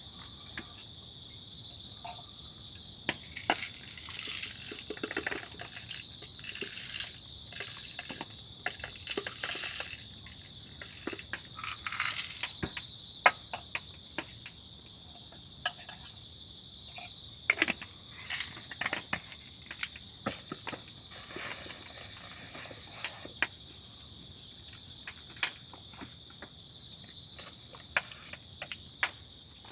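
Insects chirping steadily in a continuous pulsing chorus. Scattered sharp clicks and clinks of small gear being handled sound over it throughout.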